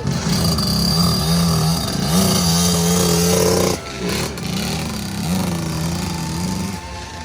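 Small dirt bike engine revving up and holding its pitch, dropping off briefly about four seconds in, then revving again.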